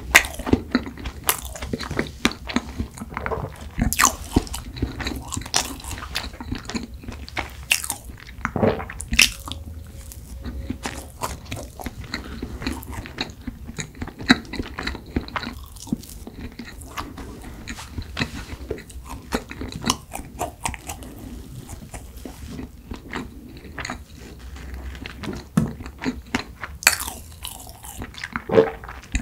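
Close-miked chewing and biting of soft cream-topped strawberry rice cake, with wet mouth sounds and many short sharp clicks.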